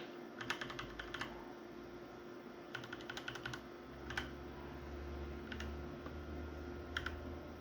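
Keys of a mechanical keyboard with Brown switches pressed in short bursts of quick clicks and a few single presses, over a faint steady hum.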